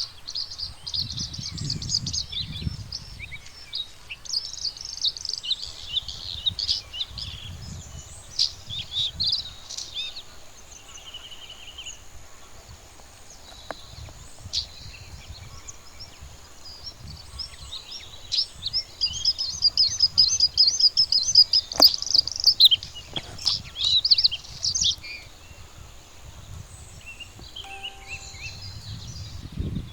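Bluethroat singing in bursts of quick, varied twittering notes, with a long, dense phrase about two-thirds of the way through. A low rumble runs underneath.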